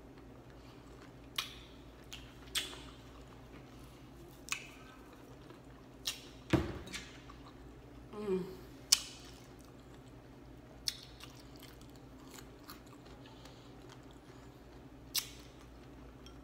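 Close-miked chewing of chicken pot pie crust: quiet mouth sounds broken by about ten scattered sharp crunches and mouth clicks, the loudest about six and a half seconds in.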